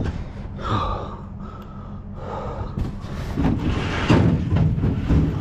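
A man gasping and breathing hard with the strain of lifting a heavy piece of scrap, heard over a low steady rumble.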